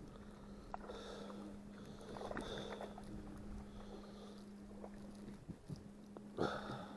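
Faint steady hum with soft water and handling noises aboard a small fishing raft, the hum dropping out briefly about five and a half seconds in.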